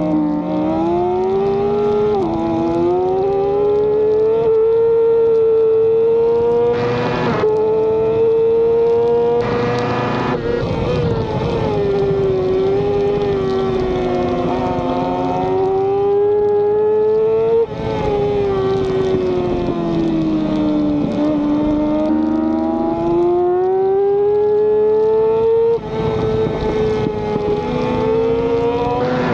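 Racing motorcycle engine running hard at high revs, its pitch climbing and falling with throttle and gear changes, with short breaks in the sound at gearshifts.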